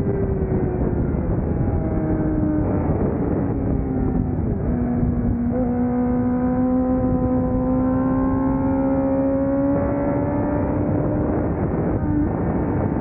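A 600cc racing motorcycle engine running hard. Its pitch sags, then climbs slowly, with a few abrupt steps as gears change, over a heavy rush of wind noise.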